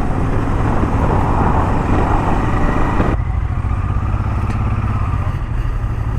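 Honda Transalp 650's V-twin engine running steadily under way, with wind noise on the helmet microphone. The wind noise drops off abruptly about three seconds in while the engine carries on.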